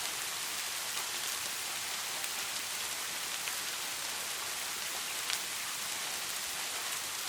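Steady rain: an even hiss with scattered sharp drop ticks, one a little louder about five seconds in.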